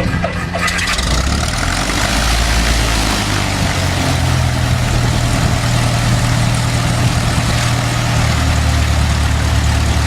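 An engine running steadily: a low droning hum under heavy rushing noise, the hum shifting pitch about eight seconds in.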